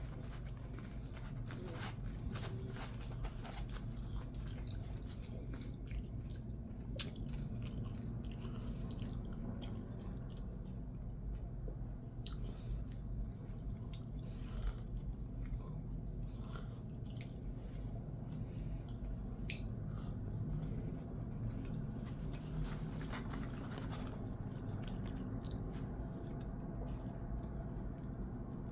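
A person chewing and biting food close to the microphone, with irregular crunchy clicks throughout, over a steady low hum.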